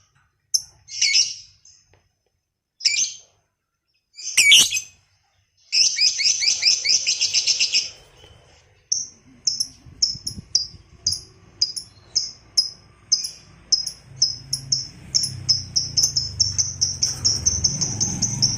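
Lovebird calling: a few short separate chirps, then a burst of rapid chattering about six seconds in, then a run of sharp high chirps that speeds up into one long unbroken trill near the end, the drawn-out 'ngekek panjang' song.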